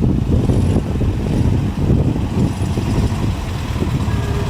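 A vehicle engine running nearby, a loud, continuous low rumble.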